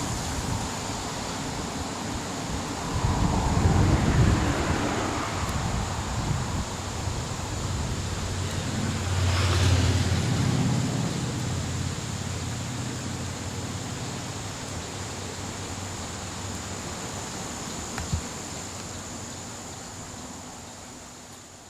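Low rumble of a passing vehicle with wind noise on the microphone, swelling twice and fading away near the end.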